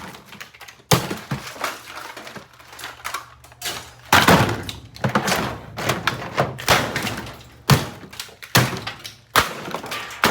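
A cheap plastic Hamilton Beach 46310 drip coffee maker being smashed: repeated hard blows crack its housing, and broken pieces clatter and rattle after each hit.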